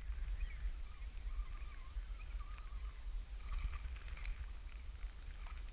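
Strong wind rumbling steadily on the microphone, with faint scattered small sounds over it.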